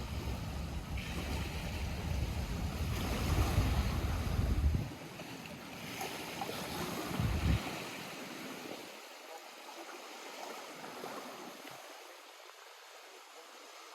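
Small lake waves lapping at the shore. Wind buffets the microphone with a heavy low rumble for about the first five seconds and once more briefly halfway through, after which the water sounds quieter and softer.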